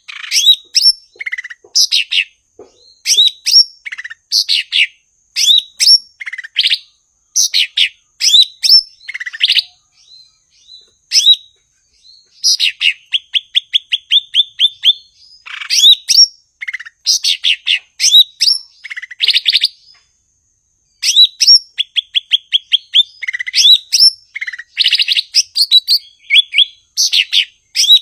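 Cucak ijo (green leafbird) singing a loud, lively, varied song of quick whistles and chirps, with a fast run of about ten repeated notes in the middle and a couple of short pauses.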